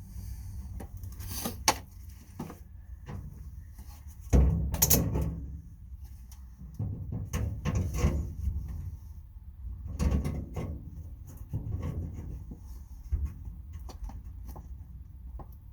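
Irregular clunks, knocks and scraping from the parts of a gang tool box being handled and worked on, the loudest clunk about four and a half seconds in.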